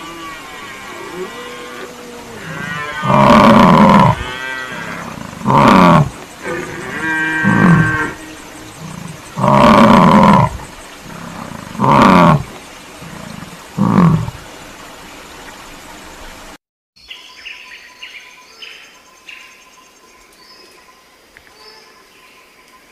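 American bison bellowing: about six deep, loud calls over some eleven seconds, the longest lasting about a second. About seventeen seconds in, the sound cuts off suddenly to a much quieter stretch of faint chirps and ticks.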